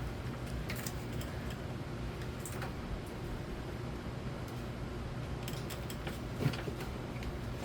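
1998 Nadair C42 42-inch spinner ceiling fan running with a steady whir, with a few faint clicks.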